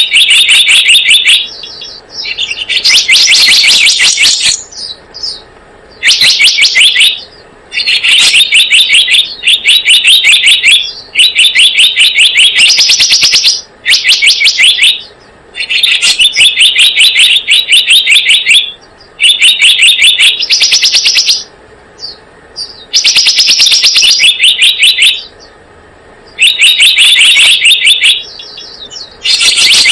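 Birdsong of the selendang biru played as a lure call: bouts of rapid, high chirps about one to two seconds long, repeating with short pauses.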